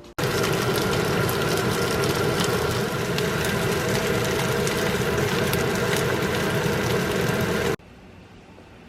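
A machine running steadily, with a constant hum under a broad noise. It starts abruptly at the beginning and cuts off suddenly about a second before the end.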